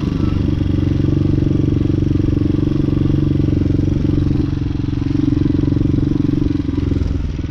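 Hawk 250 dual-sport motorcycle's single-cylinder four-stroke engine running steadily under way, easing off briefly near the end.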